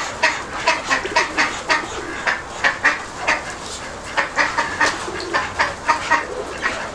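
Domestic birds calling in a yard: an irregular run of short, sharp calls, about three a second.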